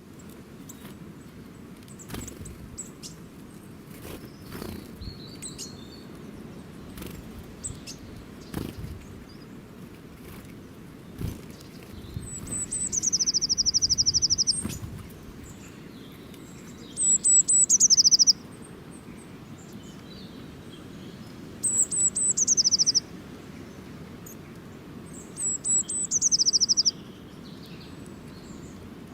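A small songbird singing the same short phrase four times, each a few high notes dropping into a fast, even trill, with a few seconds between phrases. Scattered short ticks and knocks sound in the first half over a steady outdoor background hiss.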